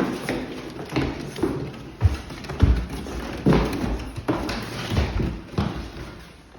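Irregular run of thumps and taps, like footsteps on a hard surface, with about a dozen strokes at uneven spacing.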